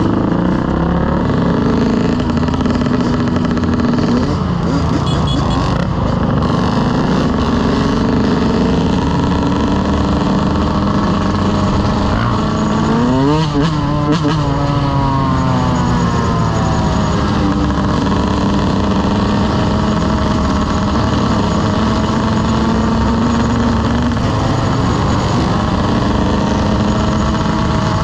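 Motorcycle engine running steadily while riding, with a quick rev up and back down about halfway through.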